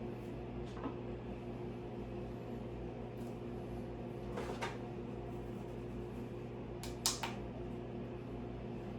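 A few short clicks and knocks of coffee-brewing gear being handled, the loudest pair about seven seconds in, over a steady low hum.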